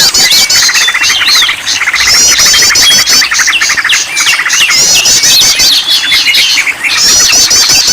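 Several small songbirds calling and singing at once, with fast repeated high chirps, rapid trills and slurred whistles overlapping in a dense chorus; a bird-lure recording used to set caged songbirds singing.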